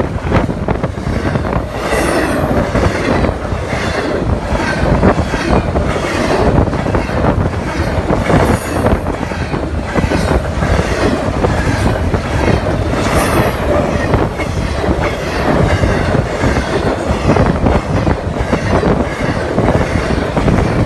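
Long intermodal freight train's cars rolling past close by: a loud, steady rumble of wheels on rail with quick clicks over the joints, and a few brief high wheel squeals now and then.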